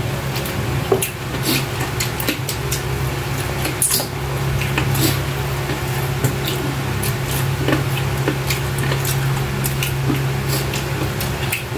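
Close-up eating sounds: wet chewing and lip-smacking as people eat grilled chicken with their hands, many short sharp clicks. A steady low hum runs underneath.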